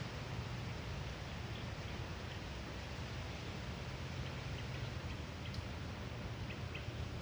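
Faint, short bird chirps scattered here and there, most of them in the second half, over a steady wind noise with a low rumble.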